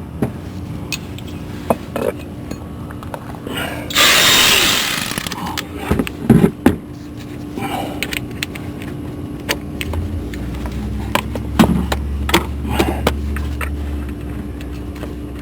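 Cordless electric ratchet spinning in a loud burst of about a second, about four seconds in and again at the end, amid scattered clicks and knocks of tools on the starter bolts, over a steady low hum.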